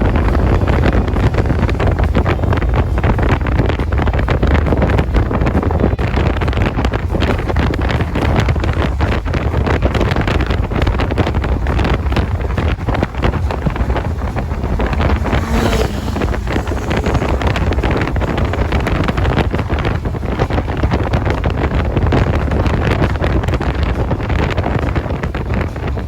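Wind rushing and buffeting over the microphone of a moving motorcycle, a steady loud rumble with road and engine noise mixed beneath.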